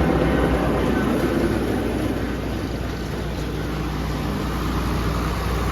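John Deere tractor engines running steadily under load, driving an ag bagger and an unloading forage wagon that are packing haylage into a silage bag.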